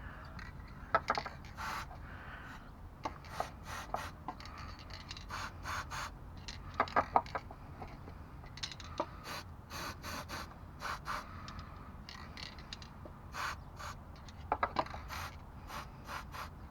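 Short hissing squirts from an aerosol can of CRC dry PTFE lube, a dozen or so brief bursts with pauses between, sprayed onto the Jeep XJ's front suspension rubber bushings to see whether the front-end noise goes away.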